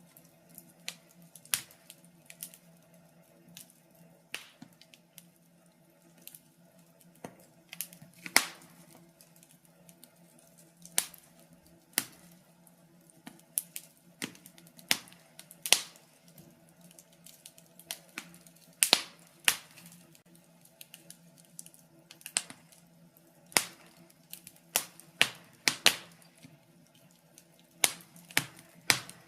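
Wood fire in a fireplace crackling, with irregular sharp pops of varying loudness over a faint steady low hum.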